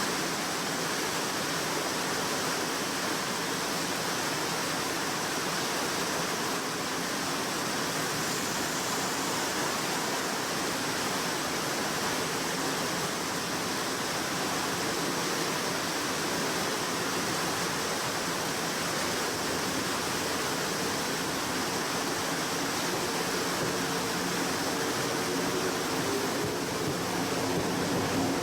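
Heavy rain pouring steadily on the station. Near the end a faint rising whine starts as the Izukyu 2100 series train's motors pull it away.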